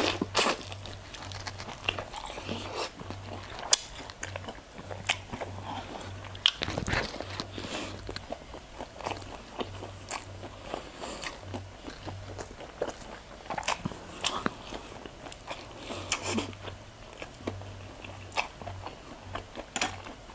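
Crunchy deep-fried chicharon bulaklak (crispy pork intestine) being bitten and chewed, with many sharp crunches spread unevenly through the eating.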